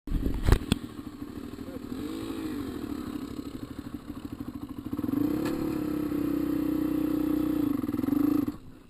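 Dirt bike engine running, with a couple of knocks about half a second in. It blips up briefly about two seconds in, then from about five seconds is held at higher revs, louder and steady, before stopping abruptly near the end.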